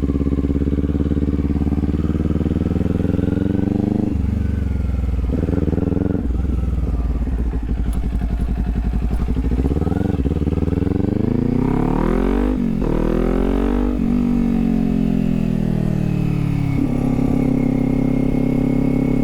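Kawasaki Z400's parallel-twin engine running as the motorcycle is ridden, its pitch climbing and dropping several times with throttle and gear changes, then settling to a steady note near the end.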